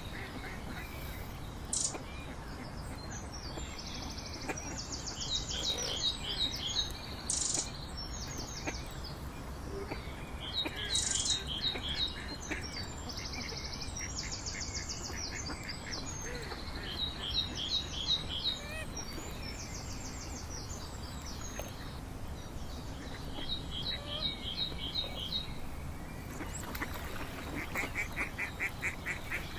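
Small birds calling in repeated runs of quick, high chirps, several runs overlapping, over a steady outdoor background hiss.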